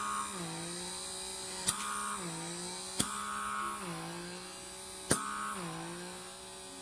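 Small electric pore-vacuum suction motor running on high power with a steady hum, its pitch dipping and recovering four times as it works across the skin. Three sharp clicks stand out over the hum.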